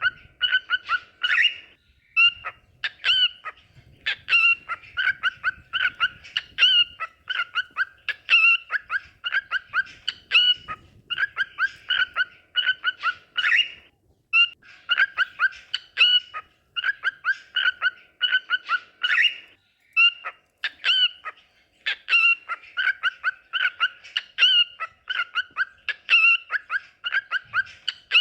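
Cockatiels chirping and whistling in rapid runs of short, repeated notes, in phrases of a few seconds with brief pauses between.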